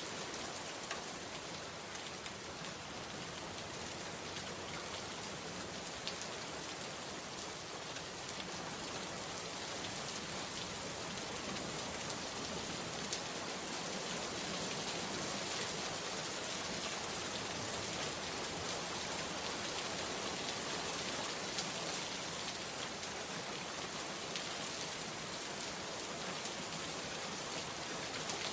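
Steady rainfall, a dense even hiss of rain with scattered individual drops ticking, growing slightly heavier about a third of the way in.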